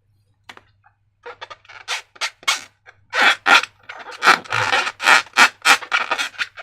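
Short rubbing and scraping strokes from slime-making materials being worked, sparse at first and then about three to four a second from about three seconds in.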